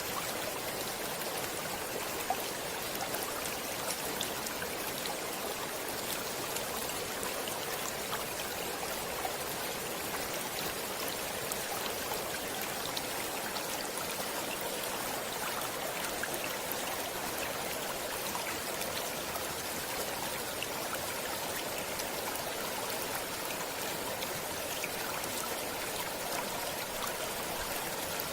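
Stream water flowing and trickling steadily, with small splashes and droplet ticks.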